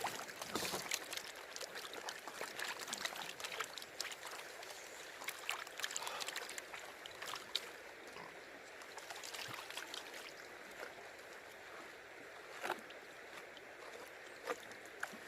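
Water sloshing in a gold pan as it is swirled, with many small splashes and clicks, over the steady wash of the river.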